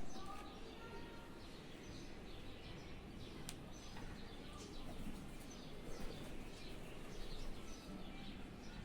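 Small birds chirping, short high calls scattered throughout, over a steady low background rumble.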